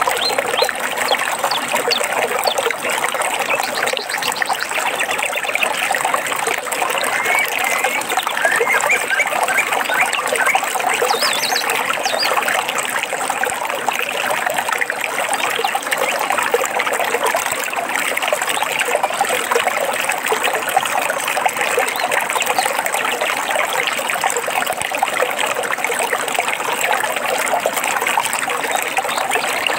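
A small stream of trickling, splashing water runs steadily. A few brief bird chirps are heard faintly over it, between about 7 and 12 seconds in.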